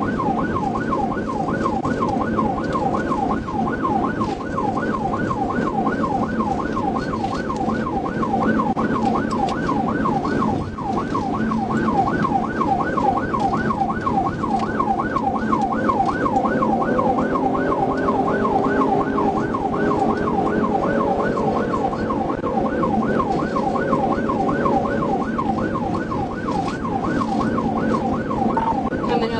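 Police car siren on yelp: a fast rising-and-falling wail that repeats about three times a second, steady throughout. Underneath it runs the engine and road noise of the cruiser in a high-speed pursuit.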